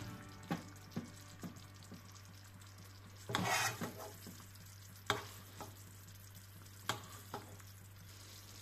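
Green-peppercorn cream sauce simmering in a nonstick frying pan around a beef fillet, with scattered short pops and clicks. A metal spoon scrapes through the sauce a little past three seconds in, making a brief louder sizzling scrape.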